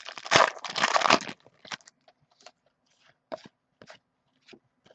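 Crinkling and tearing of trading-card pack wrapping for about the first second and a half, then scattered soft taps and rustles as the cards are handled.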